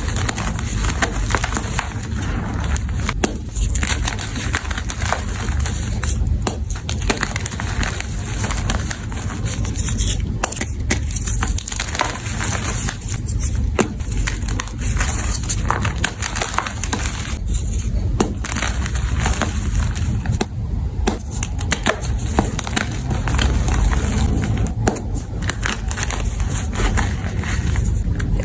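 Blocks of powdery gym chalk being crushed and crumbled, a continuous crunching with many small crackles.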